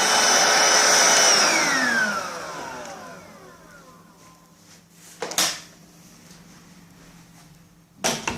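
Vax Cordless SlimVac stick vacuum running steadily, then switched off about a second in, its motor whine falling in pitch over a couple of seconds as it spins down. Two short knocks follow, one about halfway through and one near the end.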